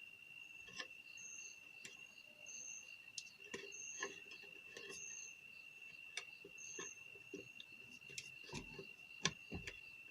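Faint scattered clicks and taps of small parts and tools being handled, with one louder knock near the end. Behind them a steady high insect drone and a short high chirp repeated about five times.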